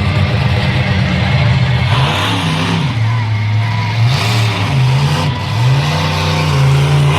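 Monster truck engine revving loudly, its pitch rising and falling several times.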